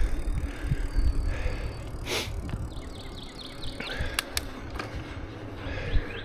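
Bicycle riding noise, with wind rumbling on the microphone. A brief whoosh comes about two seconds in, two sharp clicks a little after four seconds, and birds chirp in short high notes in the second half.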